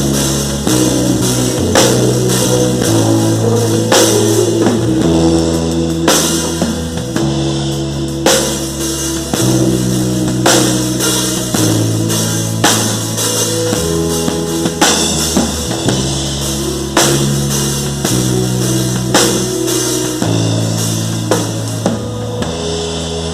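Worship band playing an instrumental passage with no singing: drum kit, a bass line moving between held notes, and guitar, with a strong drum accent about every two seconds.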